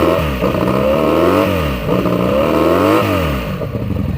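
1982 Honda Magna's V4 engine revved through new Emgo mufflers: the throttle is blipped about three times, the pitch rising and falling back each time, then settling to idle near the end. The engine bogs down when given gas, which the owner puts down to carburettors still needing work.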